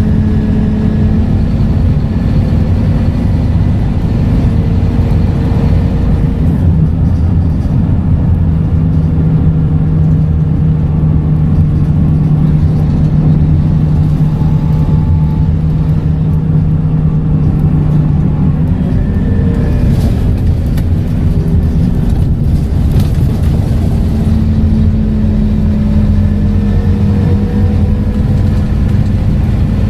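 Scania K230UB bus's five-cylinder diesel engine running under way through its ZF automatic gearbox. The engine note holds steady through the middle, then changes about two-thirds of the way in, with a few clicks and rattles, before settling at a higher pitch.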